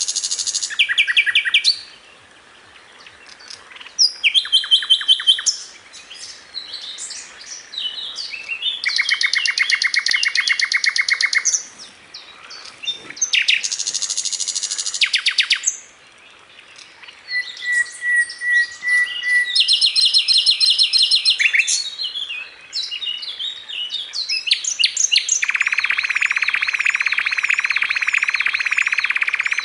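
Sikatan londo (a flycatcher) singing in full song: varied phrases of fast, rapidly repeated trills and buzzy rattles with short pauses between them, ending in a long unbroken buzzy rattle.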